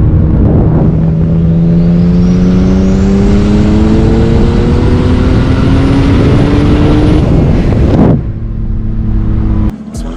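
BMW 135i's N54 inline-six, converted to a single ball-bearing turbo, pulling hard under throttle: the engine note climbs steadily for about seven seconds, with a high turbo whine rising over it. A little after eight seconds the throttle closes with a short rush of noise, and the engine drops to a lower, steadier note.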